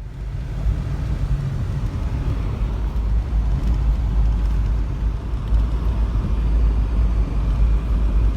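A vehicle driving: a steady low rumble with road noise, cutting in suddenly at the start.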